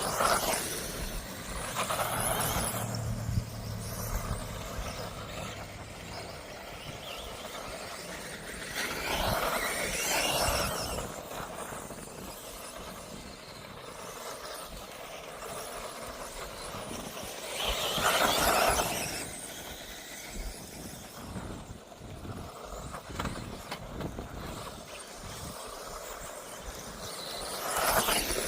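1/10 scale two-wheel-drive electric off-road buggies racing on grass: the high whine of their electric motors and gears swells loud as the cars pass close, about every nine seconds, and drops back between passes.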